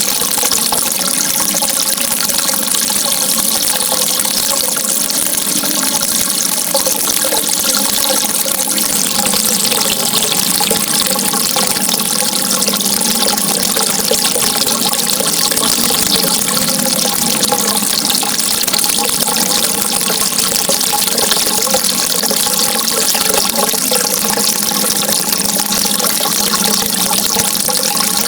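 Running water, a steady, unbroken rush with no pauses or changes.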